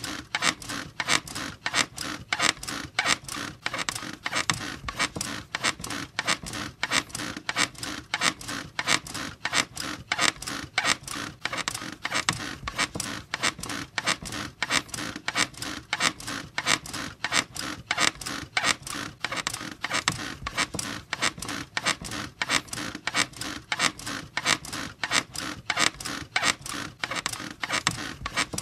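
Bed springs and frame squeaking in a steady, even rhythm of repeated creaks, as if someone is rocking or bouncing on the bed.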